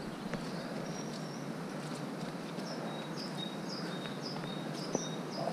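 A small bird singing, a short two-note phrase repeated about twice a second, over a steady outdoor hiss.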